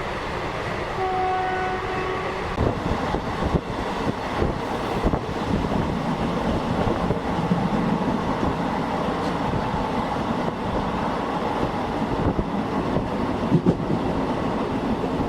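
Passenger train coach running on rails: a steady rumble with scattered wheel knocks and clatter. A train horn sounds about a second in and holds for about a second and a half.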